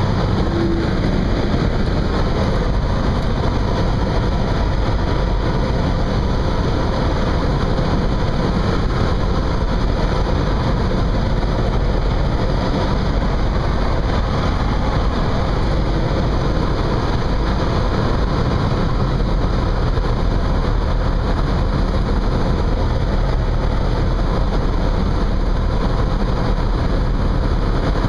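Cessna 172's piston engine and propeller running steadily, an even drone with no change in power.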